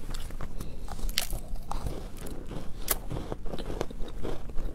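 A person chewing a mouthful of chocolate chip cookie, with irregular crisp crunches as it breaks up between the teeth.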